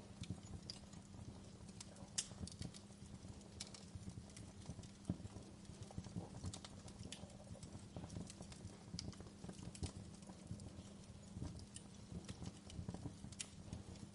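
Wood fire crackling in a fireplace: irregular small pops and snaps over a steady low rumble of the flames, with the sharpest pops about two and five seconds in.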